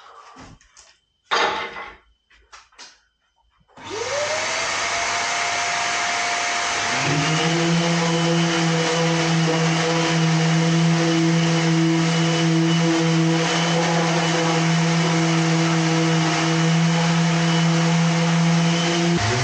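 A few handling knocks, then a shop vacuum and a random orbital sander are switched on, one about four seconds in and the other about three seconds later. Each spins up to speed and then runs with a loud, steady whine while sanding the wood.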